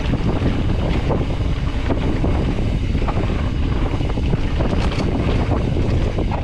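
Wind buffeting the microphone over a steady low rumble of tyres on a dirt trail as a Specialized Stumpjumper EVO Comp mountain bike descends at speed, with many scattered clicks and rattles from the bike.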